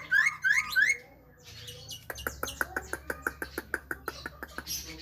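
Javan myna calling: three short rising whistled notes in the first second, then after a brief pause a fast run of sharp clicks, about seven a second.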